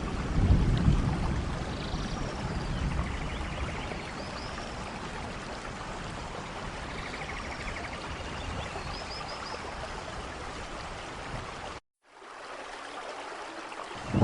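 Steady rain falling, with a low rumble about half a second in and a few faint high chirps over it. The sound cuts out completely for a moment near the end and comes back quieter.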